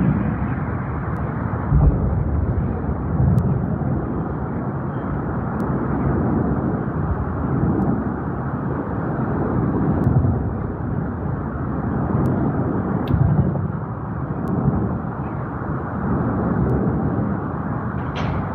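Continuous low rumble that swells and eases about every second and a half, from an outdoor recording presented as the mysterious 'skyquake' booms heard over Los Angeles. A short sharp click sounds near the end.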